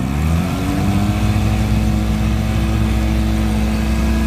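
1955 Johnson CD-12 5.5 hp two-stroke twin outboard motor running in reverse and throttled up: its pitch climbs over the first half second, then holds steady at high revs.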